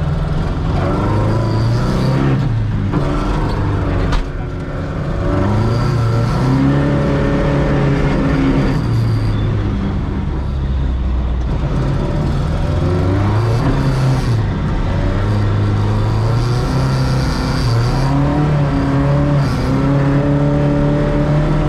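Ford Escort Mk2 engine heard from inside the car, revving up and down over and over as the rear-wheel-drive car is driven sideways on ice, with a brief lift about four seconds in.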